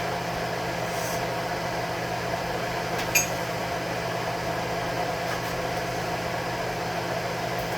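Kitchen range hood vent fan running with a steady hum, with one short click about three seconds in.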